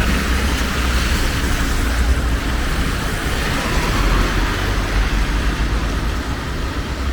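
Steady noise of road traffic on a wet street: a continuous hiss of tyres and engines over a low rumble.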